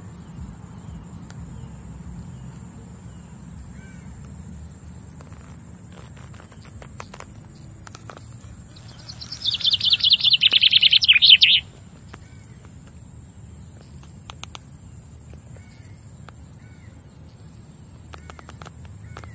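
Birds calling outdoors: faint short chirps over a steady high hiss. About nine seconds in, a loud, rapid rattling trill lasts about two and a half seconds, falling slightly in pitch.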